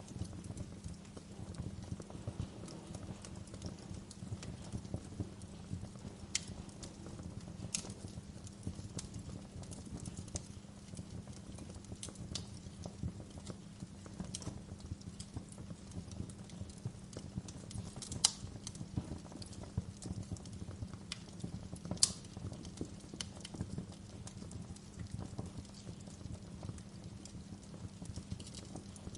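Wood fire crackling in a fireplace: irregular sharp pops and snaps over a steady low rumble, with two louder pops about 18 and 22 seconds in.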